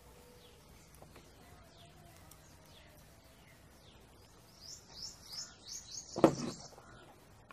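A bird chirping a quick run of about six high notes near the end, with one sharp knock about six seconds in.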